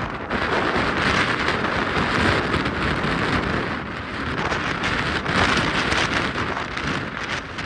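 Gusty wind buffeting the microphone: a loud, steady rush that swells and eases every second or two.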